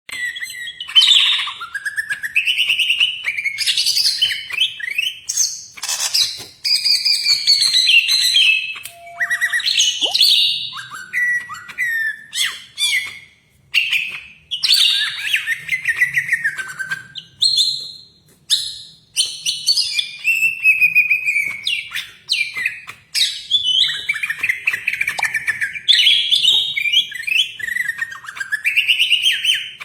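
Greater green leafbird (cucak ijo) singing a loud, continuous, varied song of rising and falling whistled sweeps and rapid trills, in a full, nonstop 'gacor' style with phrases like a magpie-robin's.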